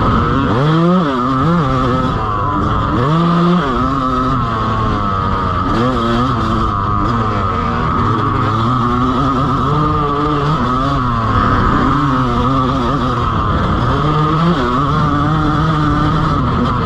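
Dirt bike engine revving up and dropping off again and again as the throttle is worked on and off around a motocross track.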